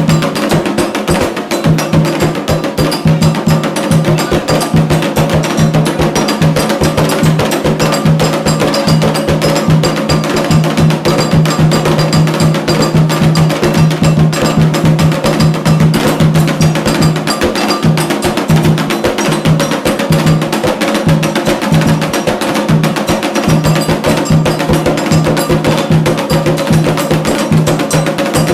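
Percussion-heavy music with fast, dense strikes.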